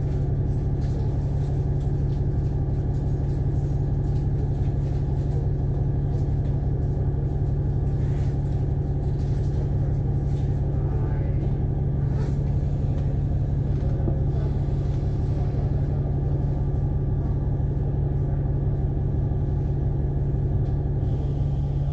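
Double-decker bus engine and drivetrain heard from inside the passenger cabin: a steady low hum and rumble with a few faint rattles.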